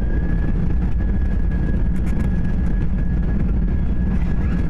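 Airliner cabin noise just after landing: a steady low rumble of the jet and its wheels on the runway, with a thin, steady high whine that sets in at the start.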